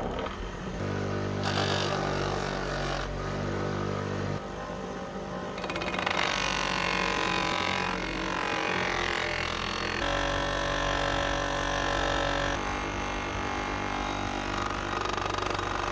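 A motor running steadily, its tone changing abruptly several times, with a higher-pitched stretch from about six to ten seconds in.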